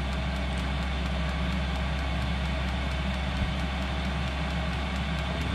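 Hcalory diesel air heater running steadily a few minutes after start-up, its combustion fan and burner giving a constant low hum with a rushing air noise, still warming up.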